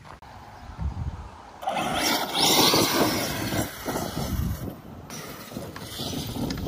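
Arrma Kraton 8S electric RC monster truck driving over loose dirt, its tyres churning the ground. The noise swells for about three seconds in the middle, then falls back.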